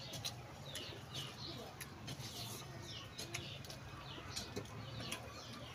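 Eating sounds: wet chewing and lip-smacking clicks as rice and dal are eaten by hand. Behind them, small birds chirp over and over in short falling notes.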